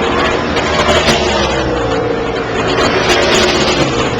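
NASCAR race trucks' V8 engines running at full speed on the track, one passing by with its engine pitch sliding down as it goes away, from about a second in.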